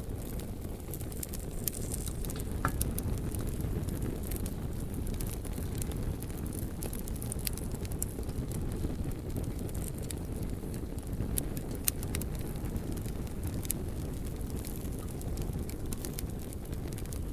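Wood fire burning: a steady low rumble with scattered sharp crackles and pops throughout.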